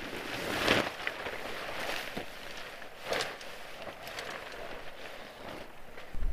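Rustling and handling of camping gear, with two louder swishes, one just under a second in and one about three seconds in, and a few small clicks.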